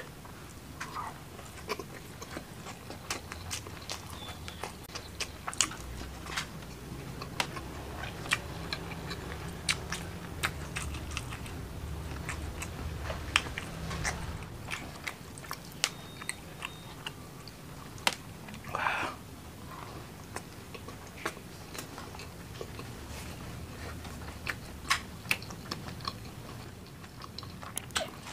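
Close-miked chewing of rice and fried mackerel with chili sambal, eaten by hand, with many sharp wet mouth clicks and lip smacks throughout.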